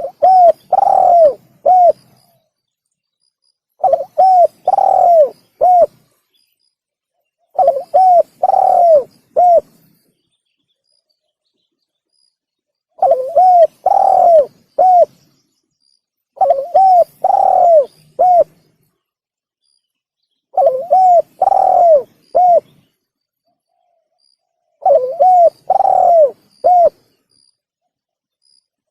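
Spotted dove (tekukur) cooing: repeated phrases of about four coo notes each, seven phrases with pauses of a second or more between them. It is a lure call for attracting doves.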